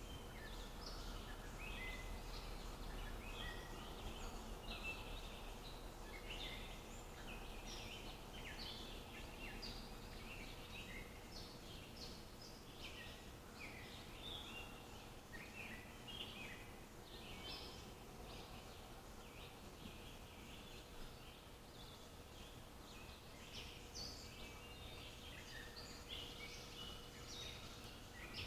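Several small birds calling and singing in short chirps and trills over a faint, steady outdoor background hiss.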